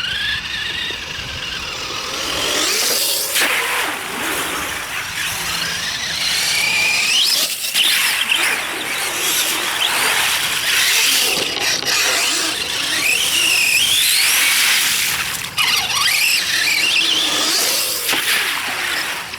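RC mud truck's motor whining, the pitch rising and falling again and again with the throttle, over a steady high hiss.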